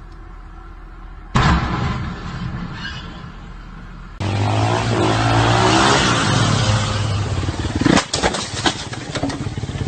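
Vehicle noise from crash footage: a sudden loud bang about a second and a half in, then a vehicle engine running with road noise, and a cluster of sharp knocks about eight seconds in.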